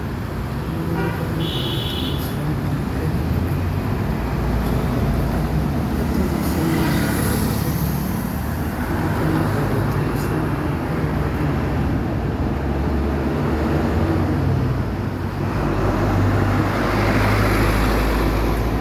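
City street traffic: vehicle engines running and passing, with a short horn toot about two seconds in and a louder, closer vehicle rumble near the end.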